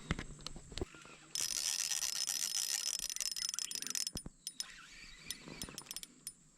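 Small spinning fishing reel being cranked: a fast, even run of ratcheting clicks for about two and a half seconds, then a few scattered clicks.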